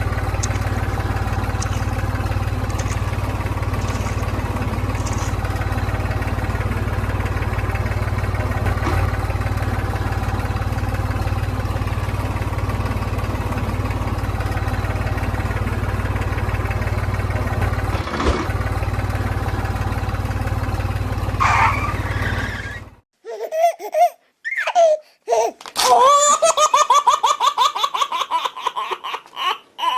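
A vehicle engine running at a steady, even drone that cuts off abruptly; then bursts of a child's laughter near the end.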